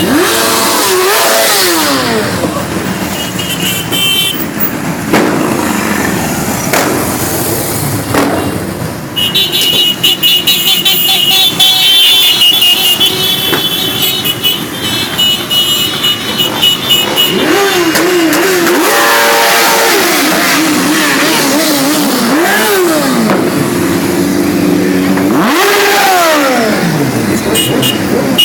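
Motorcycles riding past one after another, their engines revving up and falling away as each goes by. From about nine to fourteen seconds in there is a stretch of steady high-pitched horn tooting.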